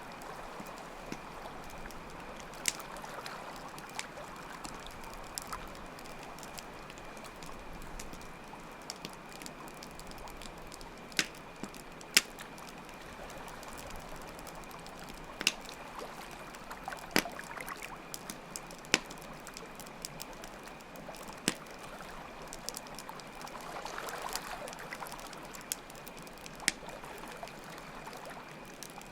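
Ambient soundscape of a crackling campfire, with sharp irregular pops over a steady hiss of flowing water and a continuous high cricket trill.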